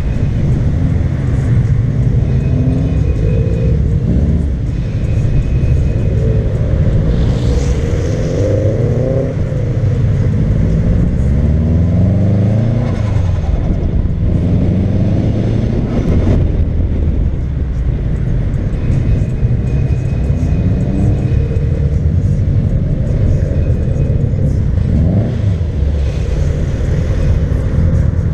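Car engine, a Subaru Impreza's flat-four, driven on the road: the revs climb and drop back several times as it pulls through the gears, over steady road and wind noise.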